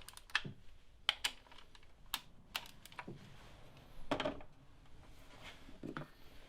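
Irregular light clicks and taps of a small torque wrench and socket working the coil-pack bolts, about eight in all, with a slightly longer rattle about four seconds in.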